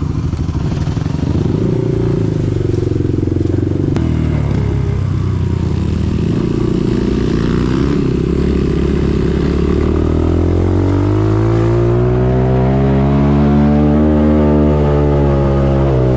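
Dirt bike engine running under way, its pitch climbing from about ten seconds in as the revs rise, then easing off near the end.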